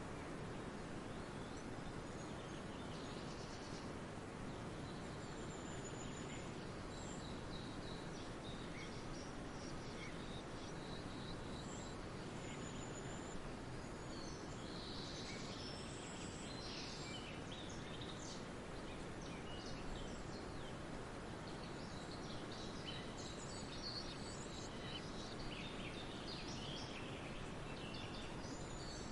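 Woodland ambience: several birds chirping and calling over a steady background hiss, with short high calls scattered throughout and busier stretches near the middle and toward the end.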